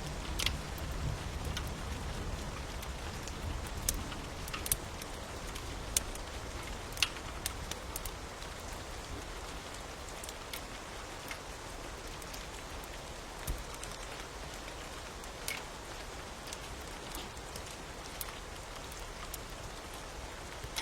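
Steady rain with the scattered sharp pops and crackles of a fire, the loudest pops coming in the first seven seconds.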